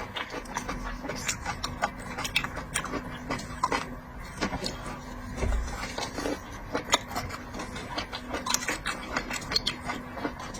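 A person eating seafood close to the microphone: irregular wet clicks, smacks and crunches of chewing, several a second.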